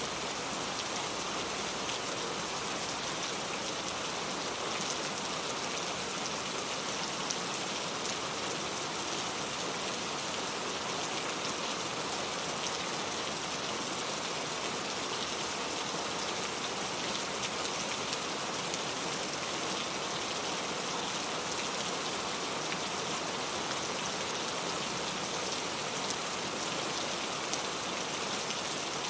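Steady rain falling, drops pattering on a surface as a continuous even hiss with no let-up.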